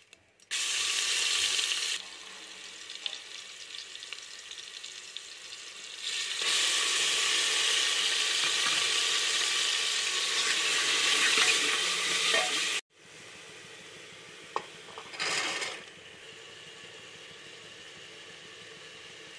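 A spoonful of paste sizzling in hot oil in an aluminium pressure cooker while it is stirred with a steel ladle. The sizzle flares loud about half a second in and again from about six to thirteen seconds, then cuts off suddenly and gives way to a quieter steady hiss.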